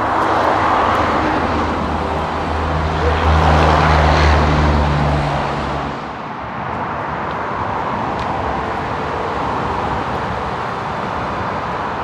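A motor vehicle passing close by: a low engine hum over a rushing noise that peaks about four seconds in and drops away about six seconds in, leaving a steady rushing noise.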